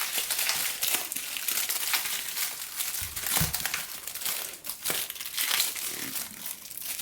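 Irregular crinkling and rustling handling noise with a soft low knock about three seconds in.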